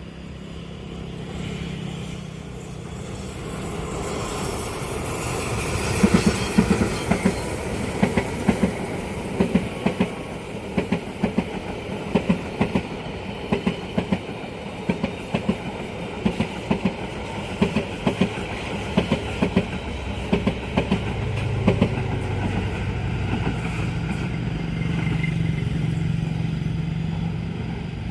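A long train passing at speed. The rumble builds over the first few seconds, then the wheels clack over the rail joints in regular pairs for about fifteen seconds, and a steady low hum takes over near the end.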